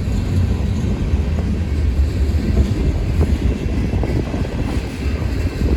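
Freight cars of a passing CSX manifest train rumbling along the rails, a steady low rumble with a few faint knocks. Wind buffets the microphone.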